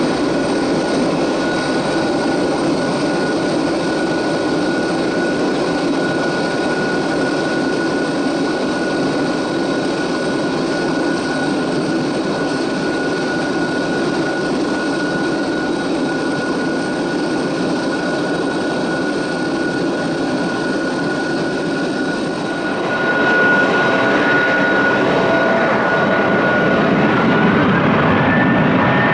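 Jet airliner engines at takeoff power: a steady, loud roar carrying a high, steady whine. About three-quarters of the way through, the sound changes and grows a little louder. Near the end the whine rises as engines spool up.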